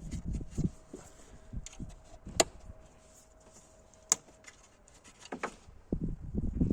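Hand-tool work on a car's alternator in the engine bay: low knocks in the first second, then two sharp clicks a little under two seconds apart, and more knocking near the end.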